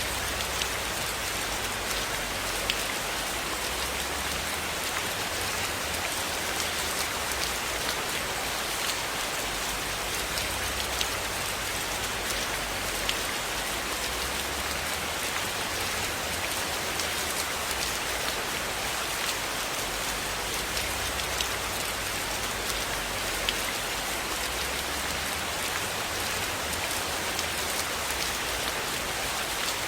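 Steady rain falling in a continuous, even hiss, with a few sharp pops scattered through it.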